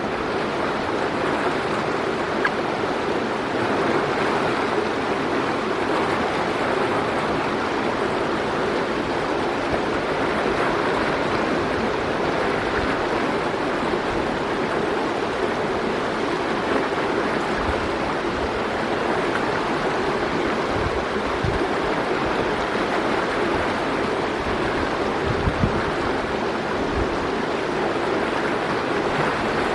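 Steady rushing of water flowing in an irrigation channel. Brief low bumps come a few times in the second half.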